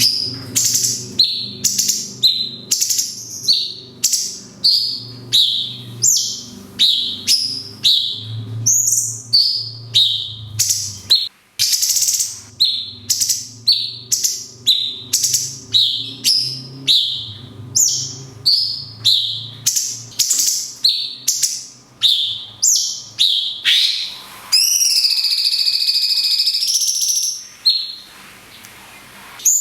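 Cucak cungkok singing its long 'kunti' shot song: a fast series of sharp, whistled notes, each sweeping downward, repeated over and over in quick succession. About 24 seconds in it switches to one continuous warbling phrase lasting about three seconds. A low steady hum sits under the notes until about 23 seconds in.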